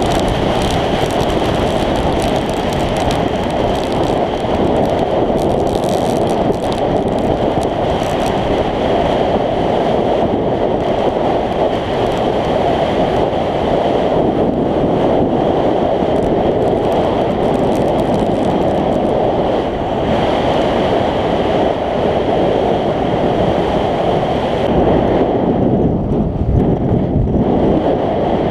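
Steady, loud wind rush buffeting the action-camera microphone of a scooter under way.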